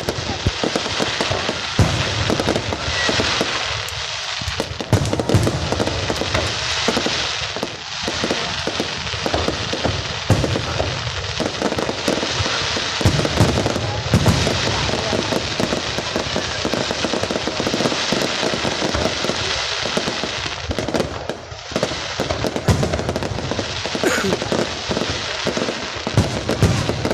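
Fireworks going off continuously: a dense, unbroken run of bangs and crackling pops.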